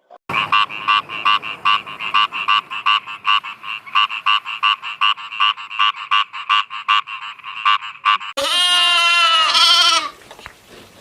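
A frog calling in a fast, even run of croaks, about four a second, for some eight seconds. Then a goat bleats once, a wavering call of about a second and a half.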